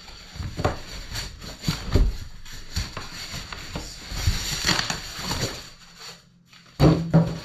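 Cardboard box and packaging being handled and opened: irregular rustling, crinkling and clicks, with two loud knocks close together near the end.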